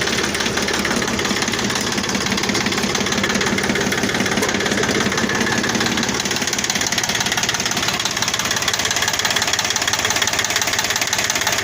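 Yanmar compact tractor's three-cylinder diesel engine idling steadily with the hood open, running on a freshly fitted water pump.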